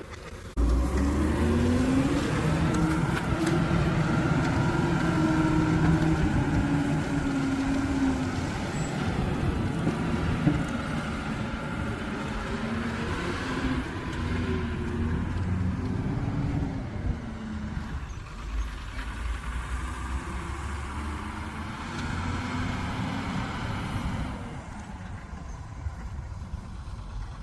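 Heavy diesel engine of a backhoe loader or tipper truck working under load, coming in suddenly about half a second in. Its pitch climbs over the first couple of seconds, holds high, then rises and falls as it works before easing lower and quieter near the end.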